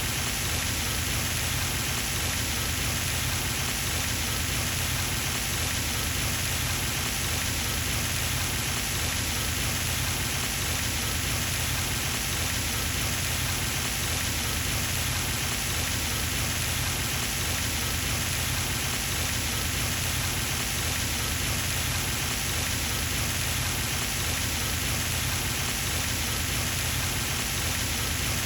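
Pond fountain's water spray falling back onto the pond surface, a steady splashing hiss like rain, with a low steady rumble underneath.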